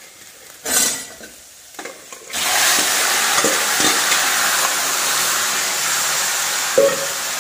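Marinated chicken hits hot oil and onions in a non-stick kadai. A loud, steady sizzle starts suddenly about two seconds in and goes on, with a few knocks of the spoon against the pan.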